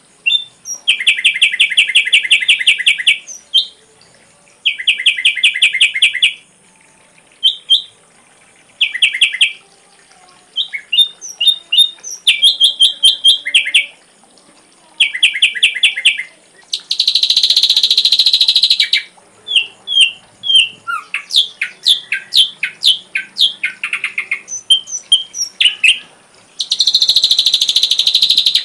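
Ashy drongo singing a varied run of phrases loaded with learned imitations. Fast rattling trills, short whistled and sliding notes, and two longer harsh, rasping bursts are separated by short pauses.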